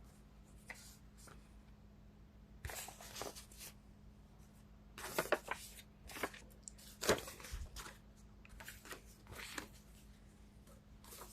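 Tarot cards being shuffled and handled in several short bursts, about three, five, seven and nine seconds in, over a faint steady hum.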